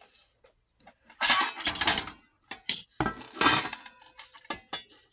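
Clattering and rattling of hard parts as a baia 8mm film editor and a reel of film are handled: two loud bursts about a second in and about three seconds in, with a few sharp clicks in between and near the end.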